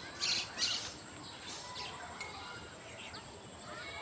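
Birds chirping, with two louder call bursts near the start and scattered short chirps after, over a steady high-pitched whine.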